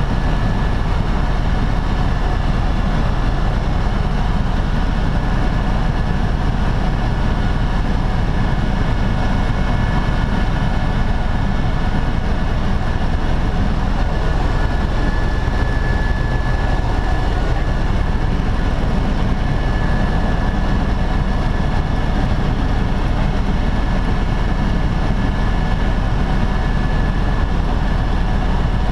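Helicopter in flight, heard from inside the cabin: a loud, steady drone of rotor and engine with a thin, high, steady whine over it.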